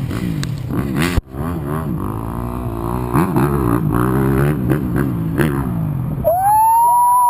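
Dirt bike engine revving, its pitch rising and falling again and again as the throttle is worked, with a brief break about a second in. Near the end a loud, high, steady tone sets in and holds.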